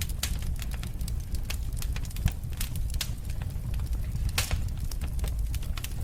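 Wood fire in a fireplace crackling, with irregular sharp pops and snaps over a steady low rumble of the flames. One pop stands out about four and a half seconds in.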